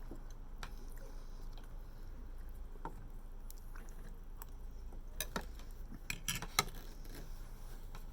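Eating at a table: chewing with cutlery clicking and scraping against a plate, a cluster of sharper clinks from about five seconds in, the loudest one near the end.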